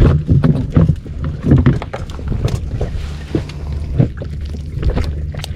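Water slapping and knocking against a small inflatable boat, with irregular knocks from handling gear on board, over a steady low hum.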